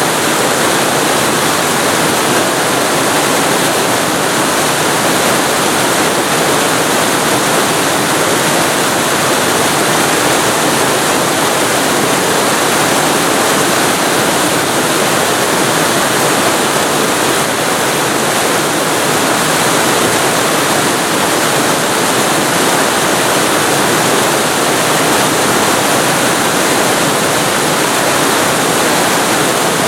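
Waterfall recorded very close to the falling water: a loud, steady rush with no breaks or changes.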